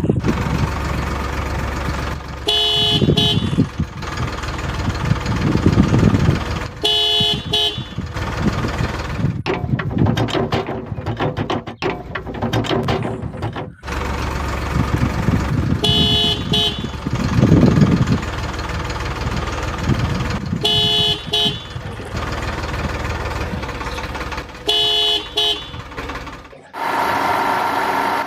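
A toy tractor's horn honks five times, each a quick run of short toots, over a steady engine rumble.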